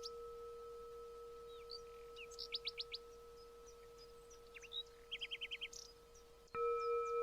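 Small songbirds chirping, with two quick runs of five or six short notes about two and a half and five seconds in. Underneath is a steady ringing musical tone that fades, then is struck again loud about six and a half seconds in.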